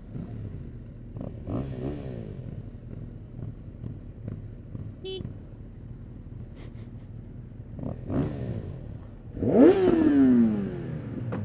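Motorcycle engines revved in a back-and-forth rev battle: a couple of quick throttle blips that rise and fall a second or two in, then a much louder, hard rev near the end that shoots up and falls back. A brief high-pitched beep comes about five seconds in.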